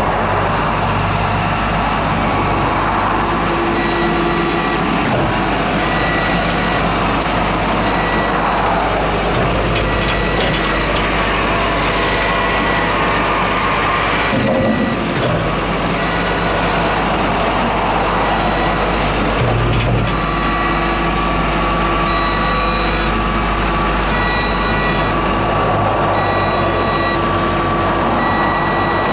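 Cat AP655D asphalt paver's Cat C6.6 diesel engine running steadily, with a travel alarm giving a regular series of short beeps.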